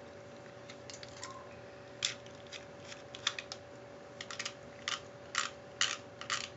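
Light, irregular plastic clicks and taps, about a dozen of them, from Beyblade tops and launchers being handled and set up for a battle.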